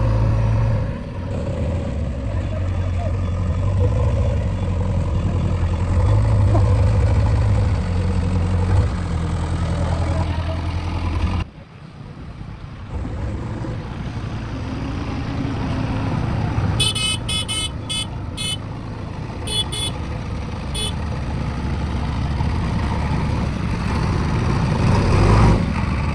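Diesel vehicle engine running steadily, dropping out abruptly for about a second partway through, then running on rougher. A vehicle horn gives several short beeps about two-thirds of the way in.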